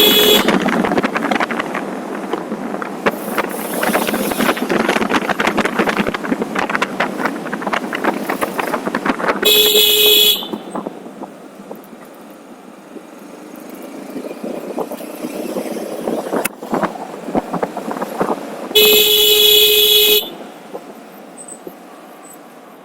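A vehicle horn honks twice, a bit under a second the first time and about a second and a half the second time, over steady road and wind noise from riding. The noise is louder in the first half.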